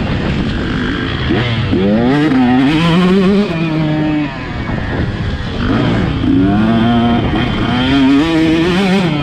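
Motocross bike engine revving hard under riding, its pitch climbing and falling in steps as the throttle opens and shuts. The engine backs off about four seconds in, then climbs again, with constant wind and track noise underneath.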